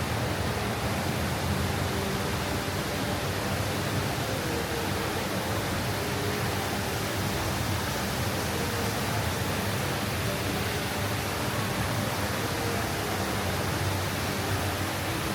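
Steady rush of falling water from a garden waterfall, an even hiss with no breaks.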